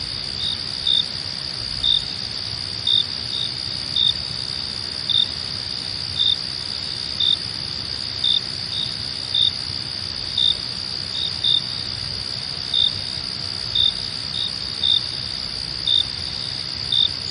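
Crickets chirping at night: a steady high trill with louder single chirps about once a second.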